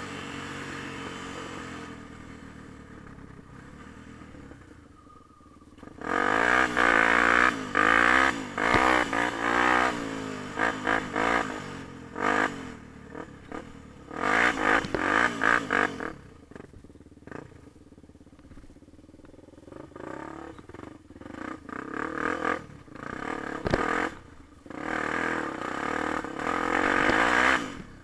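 Yamaha TT-R250 dirt bike's single-cylinder four-stroke engine being ridden, revving up and down in repeated bursts of throttle. Twice it drops back quieter for a few seconds, as when the rider rolls off the throttle.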